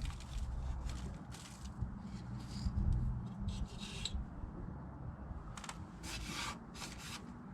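Short scrapes and rustles of parts being handled, several in a row with the loudest about six seconds in, over a low rumble.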